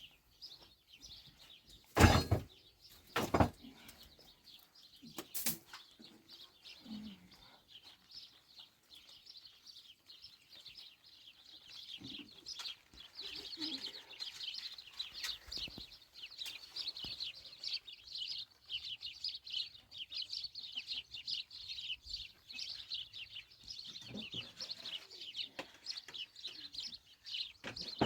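Several sharp knocks in the first few seconds, then from about halfway in a steady stream of high, rapid chirping from small birds.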